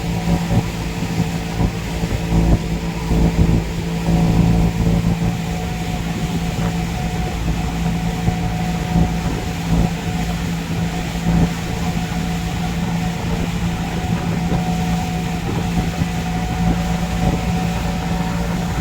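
Engine of a passenger boat droning steadily, heard from on board, with a constant hum over a rushing low rumble.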